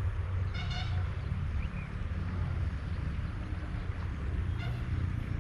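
Low, steady wind rumble on an outdoor microphone, with two short high-pitched toots, one about half a second in and one near the end.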